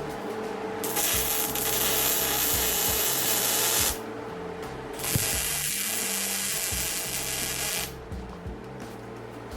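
Two bursts of steady hissing noise, each about three seconds long, with sharp starts and stops, over background music.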